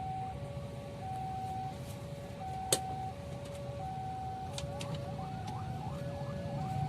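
Railway level-crossing warning alarm sounding a steady two-tone high-low pattern, each tone held about two-thirds of a second, over the low rumble of waiting traffic. A single sharp click stands out about two and a half seconds in.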